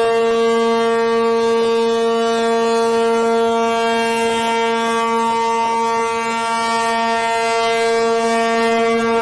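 A loud horn sounding one long, unbroken note at a steady pitch, rich in overtones.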